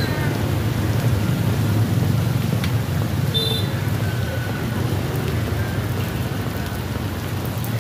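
Steady heavy rain, an even hiss strongest in its lower register.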